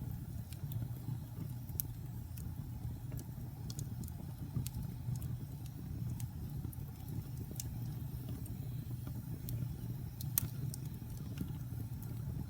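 Wood fire burning in a fireplace: a steady low rumble of flames with scattered sharp crackles and pops from the burning wood, the loudest pop about ten seconds in.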